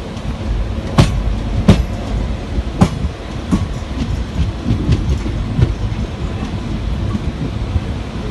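Train rumbling along the rails, with a series of sharp, irregularly spaced clacks of wheels striking rail joints. The loudest clacks come in the first three seconds.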